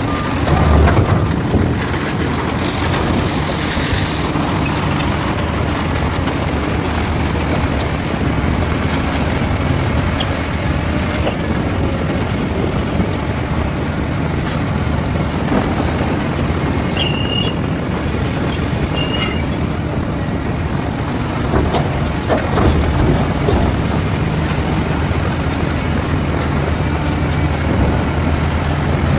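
Diesel engine of a heavy construction machine running steadily, with mechanical clatter over it and two short high squeaks a little past the middle.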